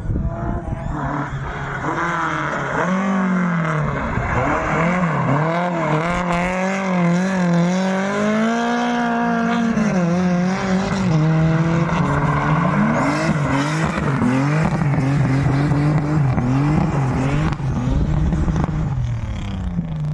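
Car engine revving hard on a drift course, its pitch swinging up and down as the throttle is worked, with quicker sharp rev changes in the second half. Tyre squeal runs underneath.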